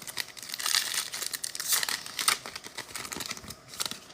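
Foil trading card pack being torn open and crinkled in the hands, a dense, irregular crackling.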